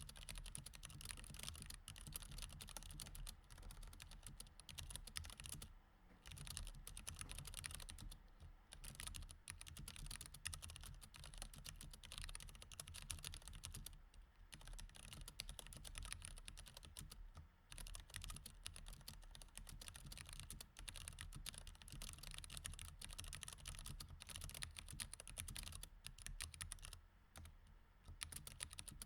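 Typing on a mechanical keyboard with Cherry MX Red switches: a fast, continuous run of key clicks that pauses briefly a few times.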